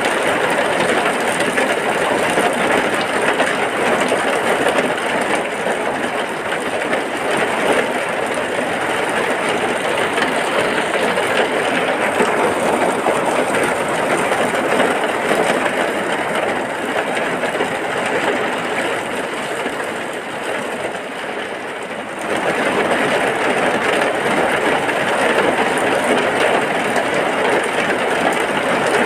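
Heavy rain falling steadily, a dense even hiss. It eases slightly about two-thirds of the way through, then abruptly returns to full strength.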